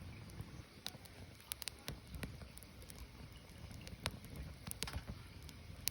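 Wood fire burning, with scattered sharp crackles and pops over a low steady rumble, a quick run of pops near the end.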